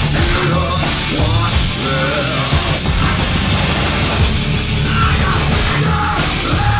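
Live heavy rock band playing loudly and steadily, guitars and drums filling the sound.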